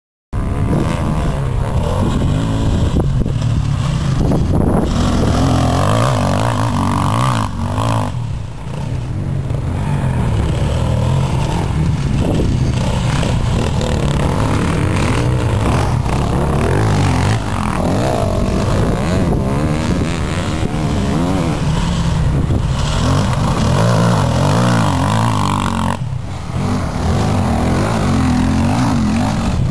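KTM 125 EXC two-stroke enduro motorcycle being ridden hard, its engine revving up and down as the throttle is worked, with short drops in the revs about eight seconds in and again a few seconds before the end.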